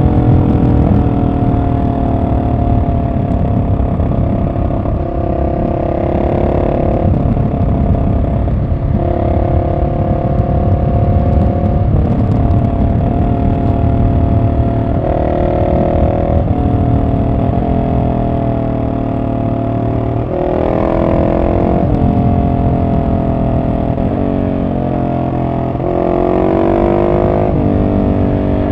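Husqvarna 701 SM's single-cylinder engine through a decatted Arrow exhaust with the dB killer fitted, pulling on the road, its note rising and falling again and again with throttle and gear changes. It rises more sharply about two-thirds of the way through and again near the end.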